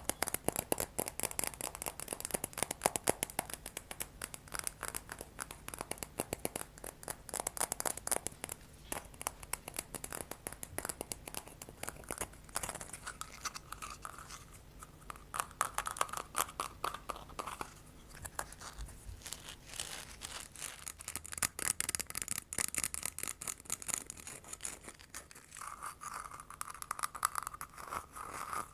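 Rapid, close-miked ASMR tapping and scratching: a dense run of small clicks and scrapes, with a ringing tone coming through twice, about halfway and near the end.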